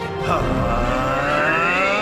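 Cartoon sound effect: a cluster of tones climbing steadily in pitch over a low rumble, starting a moment in.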